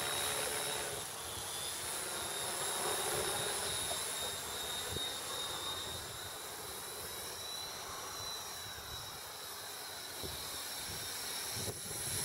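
Electric radio-controlled model aircraft flying, its motor giving a steady high-pitched whine that drifts slightly up and down in pitch around the middle.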